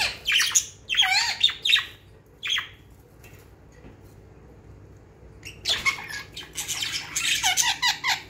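Two pet budgerigars chattering with quick, warbling squawks: a cluster of calls over the first few seconds, a lull, then a dense run of chatter from just past halfway until near the end.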